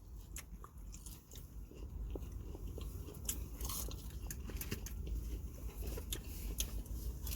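A person chewing and biting into fried fast food close to the microphone, with scattered small crunches and wet mouth clicks over a low steady hum.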